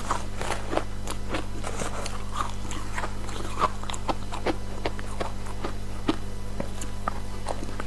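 Ice dusted with matcha powder being bitten and chewed close to the microphone: a run of irregular, crisp crunches, several a second, over a steady low hum.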